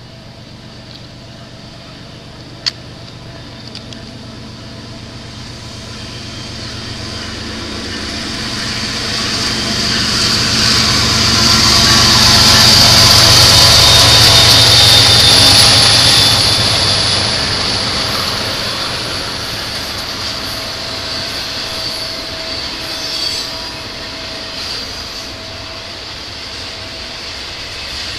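A Canadian Pacific diesel locomotive approaches and passes at the head of a double-stack container train. Its engine and wheel noise grow louder to a peak about halfway through, then give way to the steady rumble of container cars rolling by. One sharp click comes about three seconds in.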